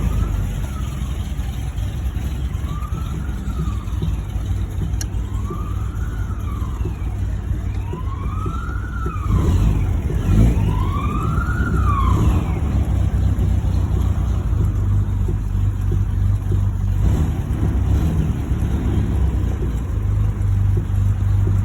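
A 1949 MG YT's four-cylinder engine running steadily, with an emergency vehicle's wailing siren sounding over it, rising and falling about every two and a half seconds, growing louder and then dying away about halfway through.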